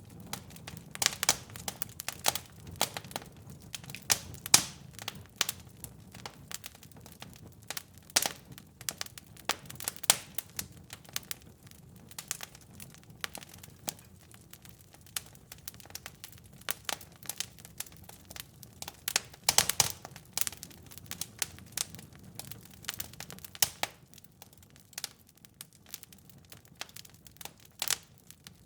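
Wood fire crackling and popping in a fireplace: sharp irregular snaps over a low, steady rumble of flame.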